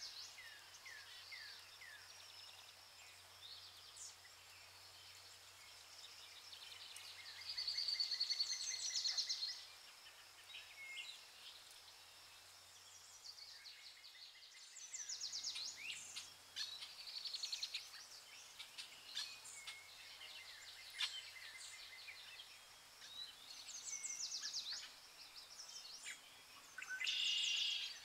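Mixed birdsong: several birds chirping and singing rapid trills, the loudest trills about eight seconds in and near the end, over a faint low hum that stops about halfway.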